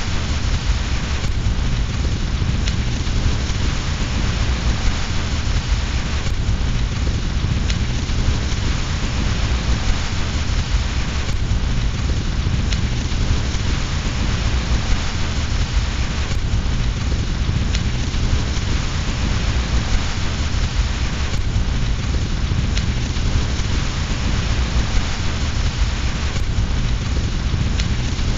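Steady rain with a fireplace fire crackling faintly under it.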